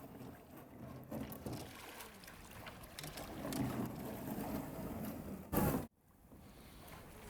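Sea water splashing and sloshing around a kayak, with a few small knocks. About five and a half seconds in a loud rush lasts a moment and cuts off suddenly.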